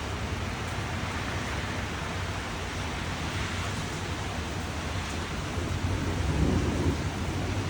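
Steady rain falling as an even hiss, with a low rumble of thunder building about six seconds in.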